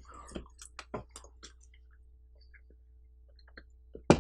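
Eating noises close to the microphone: wet mouth clicks and soft chewing, coming thickly in the first second and a half, then sparse, with one sharp click just before the end.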